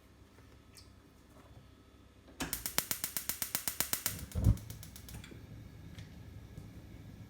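Gas stove burner igniter clicking rapidly, about ten clicks a second for nearly two seconds, then a low whump as the burner catches.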